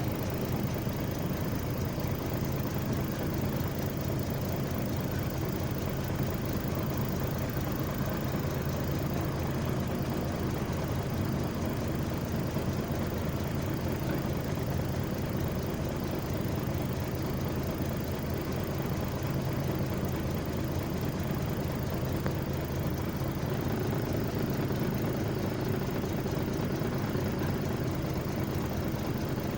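A heavy engine running steadily at an even speed, without revving or clear knocks.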